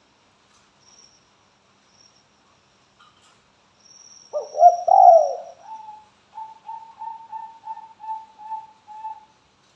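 Spotted dove (tekukur) cooing: about four seconds in, a loud phrase of bending coos, then a run of about nine short, even coos, roughly three a second. Faint high thin notes sound before the coos.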